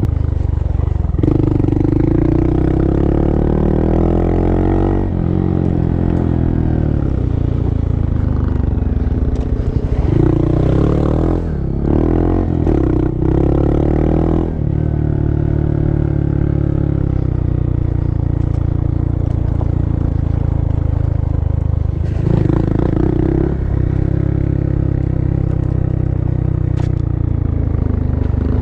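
Honda Monkey's single-cylinder four-stroke engine running under riding load on a rough dirt road, its pitch rising and falling with throttle and gear changes in the first half, then holding steady before changing again near the end. Clatter and scraping from the bike on the uneven track come through over the engine.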